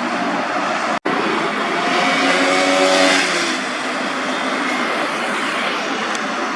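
Superbike engine running and passing, its note swelling to a peak about two to three seconds in, then easing off. The sound breaks off sharply for an instant about a second in.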